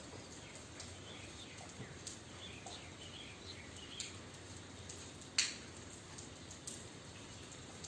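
Rain falling with scattered drips and taps, one louder tap about five seconds in. Faint short high chirps come through between about one and three and a half seconds in.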